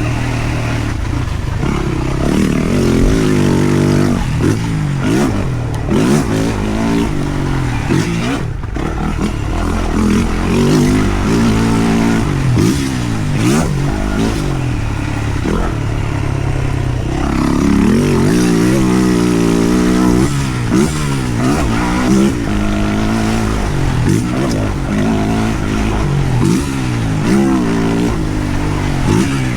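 2023 Yamaha YZ450F's single-cylinder four-stroke engine being ridden hard, revving up and dropping back again and again as the rider works the throttle and shifts gears.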